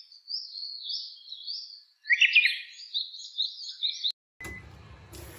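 Small birds chirping in quick, repeated high notes, busiest about two seconds in, then stopping abruptly about four seconds in, leaving only a faint steady hiss.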